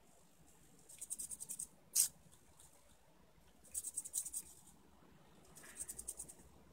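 Small servo motors of a 3D-printed robot arm buzzing in three short bursts of rapid ticking, about a second each, with one sharp click about two seconds in.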